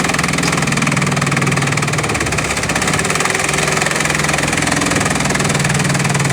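Bamboo-crushing machine running under steady load, its engine humming under a fast, even clatter.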